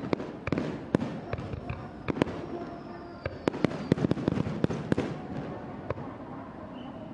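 Aerial fireworks display: shells bursting in quick, irregular succession, many sharp loud bangs over a steady dense rumble of smaller reports, with faint gliding whistles among them.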